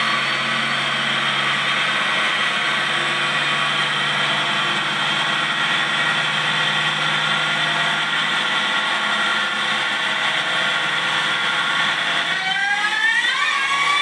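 Supercharged V8 of a 2003 Harley-Davidson edition pickup running hard on a chassis dyno, a steady high-pitched engine and blower sound. About twelve seconds in, the pitch rises quickly as the engine revs up.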